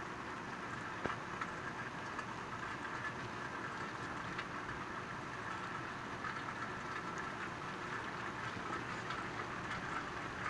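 Steady rain, with a few faint ticks of drops landing close by.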